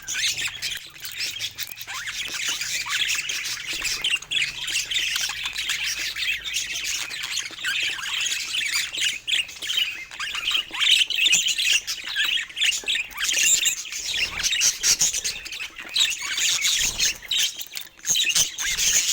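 Pet budgerigars chattering: a dense, overlapping stream of short high chirps and warbles that runs on without a break.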